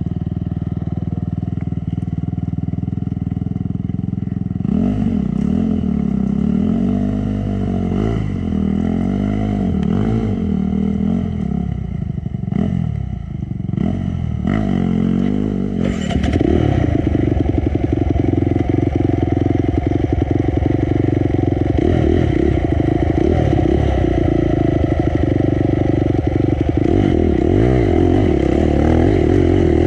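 Honda CRF250 dirt bike's four-stroke single-cylinder engine working over rough trail: steady at first, then revving up and down repeatedly with the throttle, and running louder and at steadier high revs from about halfway through.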